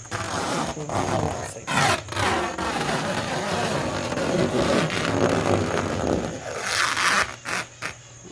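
Plastic cling wrap being pulled, crinkled and rubbed over a container in continuous scraping rustles, with a sharper burst about seven seconds in.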